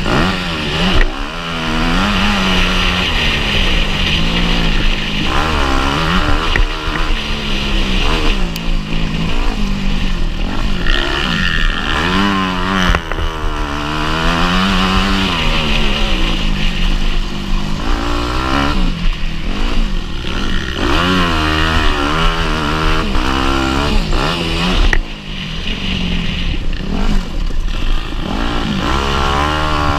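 Motocross bike engine revving hard and easing off again and again, its pitch climbing and falling every second or two, with a brief dip in level near the end.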